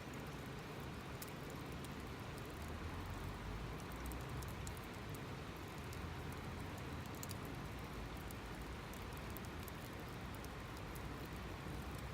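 Steady rushing of a river, with scattered small sharp crackles from the wood fire.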